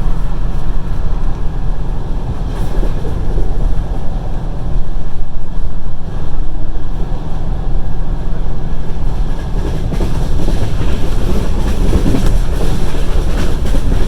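Passenger train running along the track: a steady rumble of the wheels on the rails.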